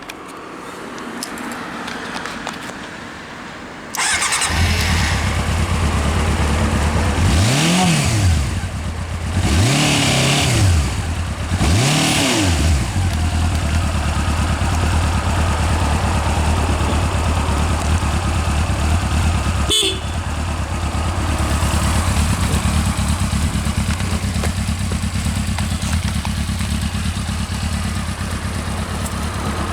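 Honda CB400Four NC36's four-cylinder engine through its stock exhaust, starting up about four seconds in. It is blipped three times, each rev rising and falling quickly, then settles to a steady idle.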